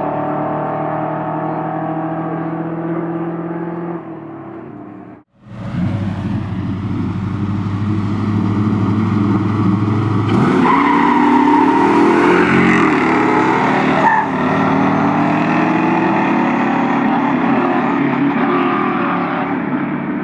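Muscle car engines idling with a steady, lumpy rumble. The sound breaks off just after five seconds, then engines run hard under full throttle, their revs rising and falling as a car accelerates away in a race.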